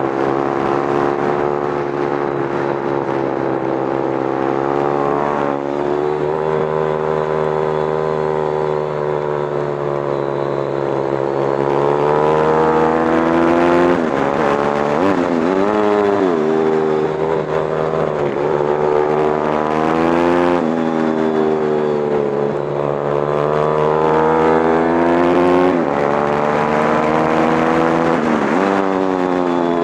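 Motorcycle engine heard from on board while being ridden on a track, revs climbing on the straights and falling back again and again as the throttle is rolled off for corners, with a sharp drop and climb about halfway through and another near the end.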